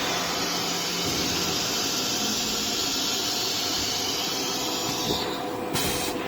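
Compressed air hissing steadily on a Blue Elephant 1530 ATC CNC router during its automatic tool-length measurement cycle. The hiss stops about five seconds in and is followed by a sharp clunk near the end.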